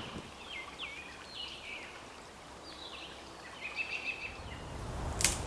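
Birds chirping faintly, a string of short calls that slide up and down, over low outdoor background noise; a single sharp click or snap near the end.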